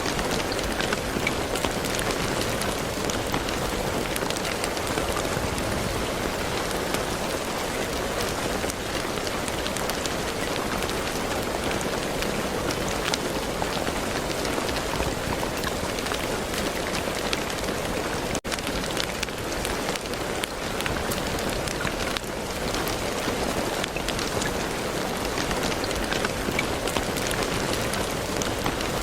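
Steady rain falling, a dense even patter of many drops, with a momentary break about two-thirds through.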